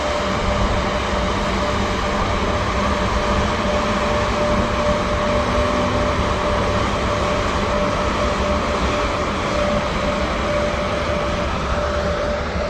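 EP1M electric locomotive hauling a passenger train as it departs, running steadily with a constant whine from its electrical equipment over the rumble of the train.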